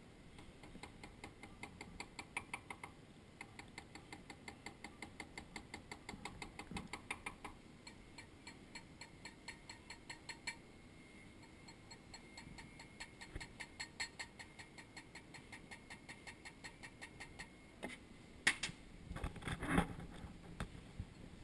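Light, rapid ticking, about four strokes a second, then a few louder knocks near the end. This is hand tool work on a freshly sized ring as it is rounded up and filed.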